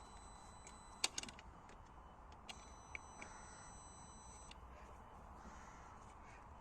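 Near silence with a few faint, short clicks, the sharpest about a second in; no cranking or engine running.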